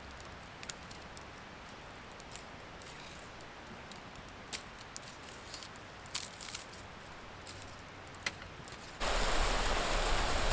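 Campfire crackling, a faint hiss with scattered sharp snaps and pops of burning wood. About nine seconds in, a much louder steady hiss starts suddenly and covers the fire.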